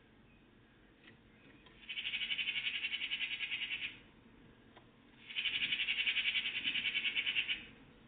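A songbird's rapid trill of evenly repeated notes, given twice, each about two seconds long.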